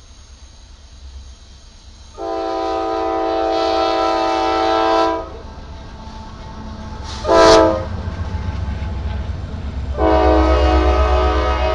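Multi-chime air horn of an approaching GE AC44C6M diesel locomotive, sounded as a long blast, a short blast, then another long blast, over the low rumble of the locomotive, which grows louder near the end.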